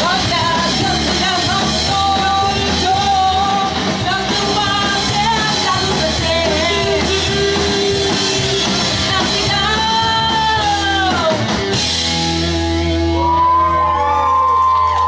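Pop-punk band playing live through a PA: loud rock with sung lead vocals. About twelve seconds in the drums stop and a chord rings on while voices yell over it.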